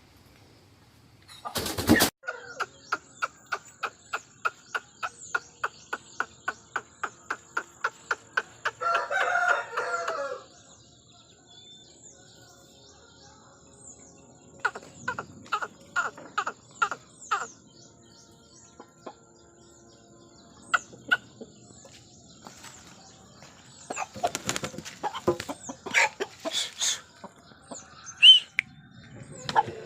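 Aseel chickens clucking, with a short call about ten seconds in. A fast, even run of sharp pulses, about four a second, fills the first several seconds, and scattered clucks and short calls come again in the second half.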